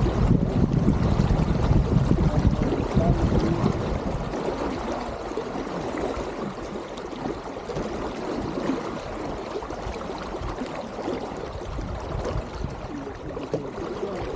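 Water gurgling and trickling along the hull of an Elliott 7.4 sailboat under way. There is a low rumble of wind on the microphone for the first few seconds, which then eases.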